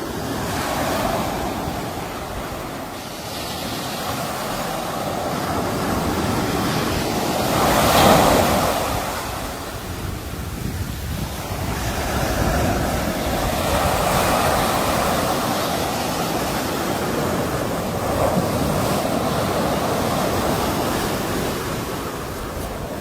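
Sea waves breaking and washing on the shore, a continuous surf noise that swells and recedes, with the largest wave peaking about eight seconds in.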